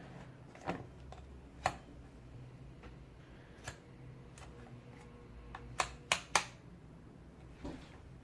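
Sharp clicks and taps of hard plastic and metal parts of a Britânia B20 electric fan being handled, seven or so scattered hits with three quick ones close together past the middle, over a faint low hum.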